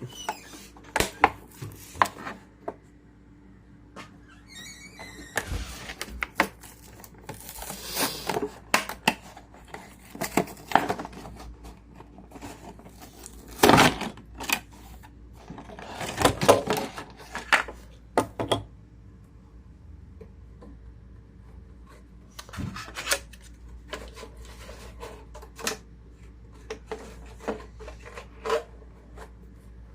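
A Hot Wheels Monster Trucks two-pack being opened by hand: the packaging crinkles, crackles and tears in irregular bursts, with scattered sharp clicks and taps.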